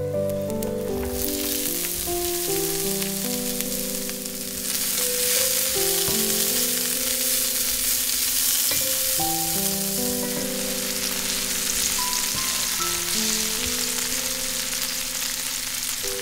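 Garlic cloves sizzling in hot oil in a frying pan. About five seconds in the sizzle grows louder, with sliced red bell peppers in the pan being stirred with a wooden spatula.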